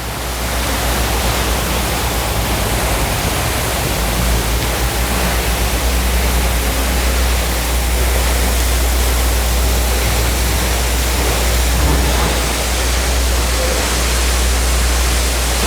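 Bridal Veil Falls pouring at high flow after a day of heavy rain: a steady, loud rush of falling water with a deep rumble underneath.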